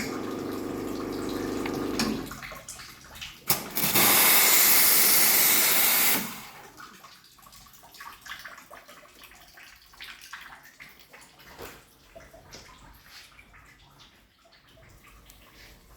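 Two-group commercial espresso machine: its pump hums with water flowing for about two seconds, then after a couple of clicks a lever-operated steam wand lets out a loud, even hiss of steam for about two seconds that cuts off suddenly, followed by faint clicks and drips.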